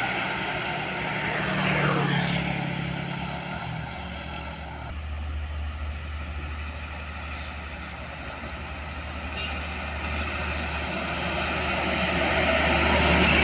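Road traffic with heavy trucks: a vehicle passes about two seconds in with a falling pitch as it goes by. A low engine rumble follows, and the noise of another approaching vehicle grows toward the end.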